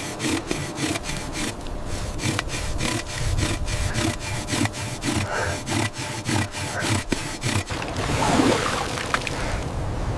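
Hand saw cutting with quick, regular back-and-forth strokes, about three to four a second, stopping about three-quarters of the way through; a rougher, uneven scraping follows.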